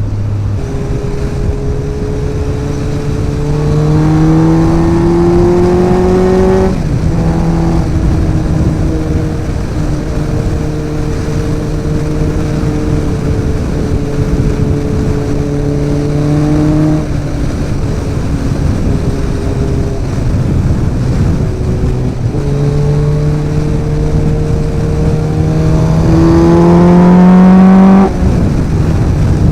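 Suzuki Bandit 1250's inline four-cylinder engine through an aftermarket exhaust and extractors, under way on the road. The pitch climbs twice under acceleration, each time dropping suddenly, with steady cruising in between. The second pull near the end is the loudest.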